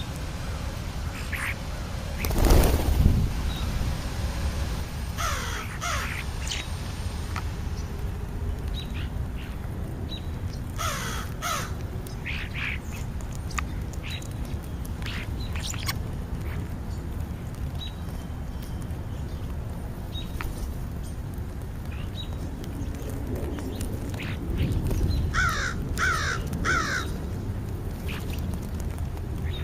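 American crows cawing: scattered single caws, then a quick run of three caws near the end, over a steady low outdoor rumble. A short rush of noise comes about two seconds in and is the loudest moment.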